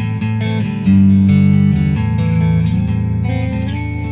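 Fender Aerodyne electric guitar on its middle single-coil pickup, a Mojotone Quiet Coil, played through a Bad Cat Cub amp's lightly driven overdrive channel with delay. Chords ring out, with a fresh, louder strike about a second in.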